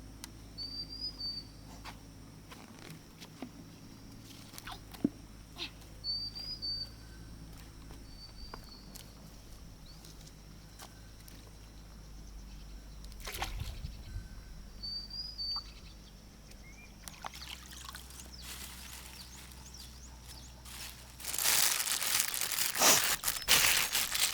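Water splashing and sloshing loudly for a couple of seconds near the end, with scattered small splashes and knocks before it. A bird gives short high chirps every few seconds.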